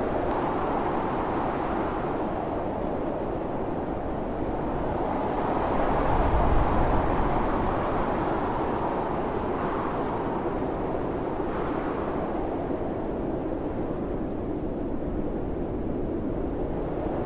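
Blizzard wind blowing in gusts, a steady low rush that swells about six seconds in and again near the end.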